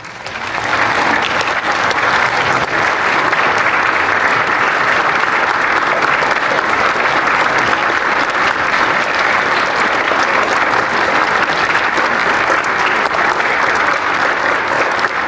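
Audience applauding: a long, steady round of clapping that breaks out suddenly and keeps going.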